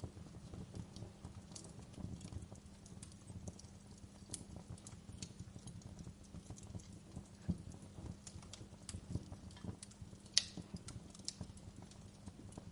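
Wood fire crackling in a fireplace: irregular pops and snaps over a low rumble, with one sharper crack about ten seconds in.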